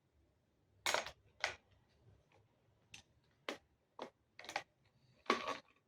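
Parts of a newly unboxed device being handled and fitted together: about seven sharp, separate clicks and knocks, spaced irregularly, with the loudest near the end.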